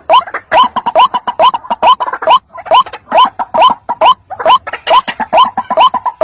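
White-breasted waterhen calls played as a trapping lure: a fast, steady series of short rising notes, several a second.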